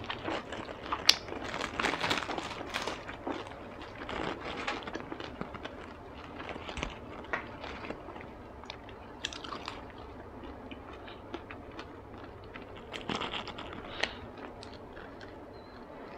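Close-miked chewing and crunching of spring rolls, with small crackles and wet mouth clicks. The crunching is busiest in the first few seconds, quieter in the middle, and picks up again around 13 seconds with a fresh bite.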